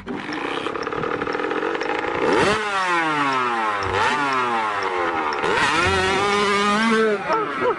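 Motorcycle engine running hard, its pitch climbing and dropping several times as it is revved.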